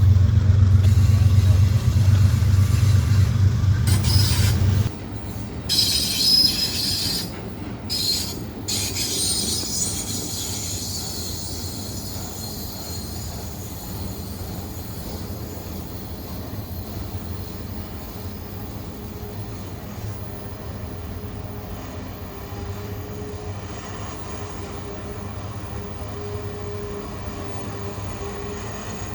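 A train passing on the line: a heavy low drone from the locomotives cuts off about five seconds in. Metallic wheel squeal follows for a few seconds, then the steady rumble of cars rolling by with a faint thin whine.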